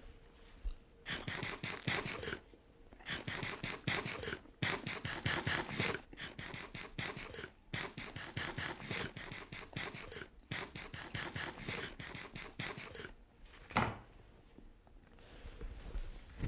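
Chewing pizza close to the microphone: runs of rapid crackling clicks a second or two long, with short pauses between, stopping about three-quarters of the way through. A single knock follows, and a whoosh swells at the very end.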